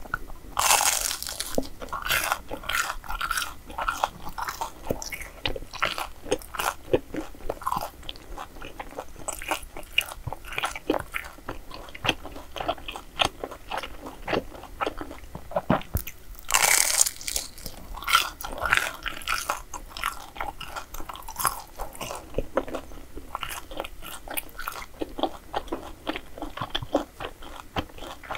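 A person eating crisp Korean street desserts, crunchy bites and chewing with many small crackles. Two louder crunching bites come, one just after the start and one about halfway through.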